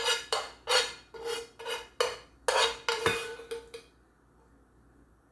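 A spoon knocking and scraping against a metal pan in a quick run of ringing strokes as cooked kale and chicken are scooped out; the strokes stop about four seconds in.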